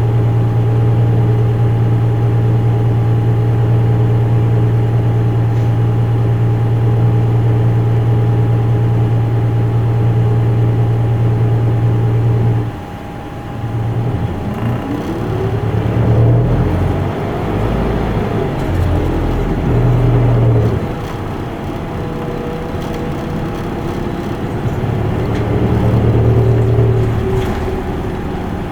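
Isuzu Erga Mio city bus heard from inside the cabin. Its four-cylinder diesel holds a steady low hum for about thirteen seconds, then the bus pulls away: the engine note climbs and falls several times as it accelerates through the gears.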